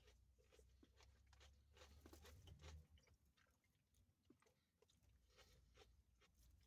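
Faint close-up chewing: soft wet mouth clicks and smacks of someone eating food, scattered irregularly.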